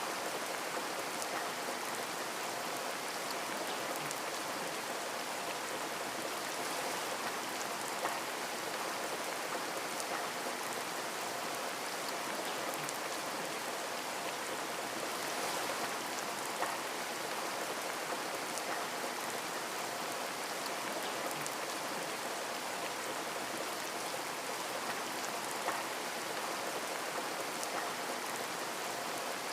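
Rain falling on a window: a steady hiss of rain with scattered drops ticking against the glass, a few louder drops standing out now and then.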